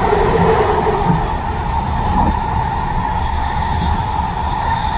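SkyTrain metro car running at speed, heard from inside the car: a steady rumble of wheels on the track with a steady whine just under 1 kHz.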